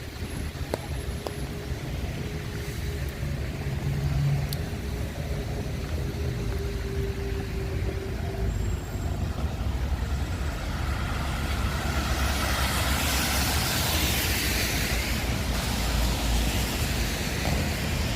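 Road traffic on a wet street with a steady low rumble. From about twelve seconds in, a vehicle passes with a rising and falling hiss of tyres on the wet road.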